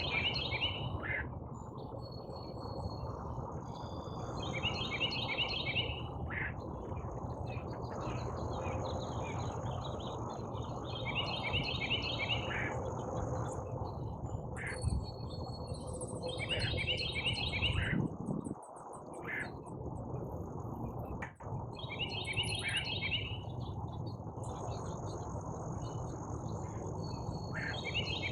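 Outdoor field sound: short bursts of rapid, pulsing high chirps, each about a second long, repeating every few seconds over a steady high insect buzz and a constant low rumble.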